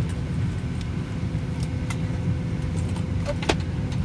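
Steady low rumble of a moving vehicle heard from inside, with a faint constant hum and a few light clicks and rattles, one sharper click near the end.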